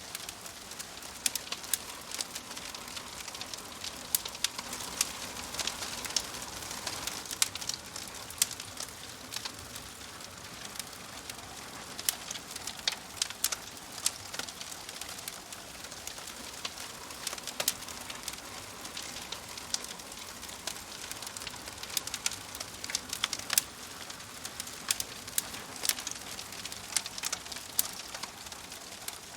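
Wood fire in a fireplace crackling: a steady hiss of burning logs with frequent sharp, irregular pops and snaps.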